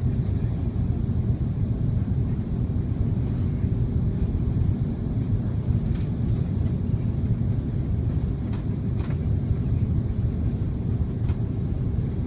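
Steady low rumble of engine and airflow noise inside the cabin of an AirAsia X Airbus A330 airliner around landing, with a steady hum under it and a few faint clicks.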